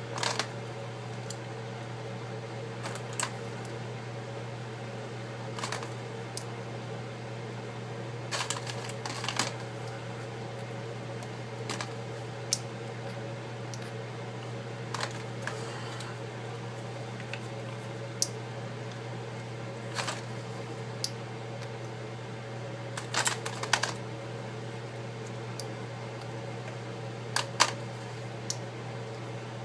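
Scattered light clicks and taps of tools being handled during an iPad screen repair, a few seconds apart, some in quick pairs, over a steady low hum.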